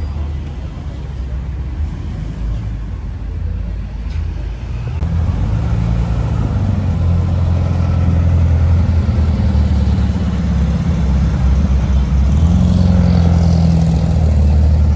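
A car engine running with a steady low rumble that grows louder about five seconds in and stays loud.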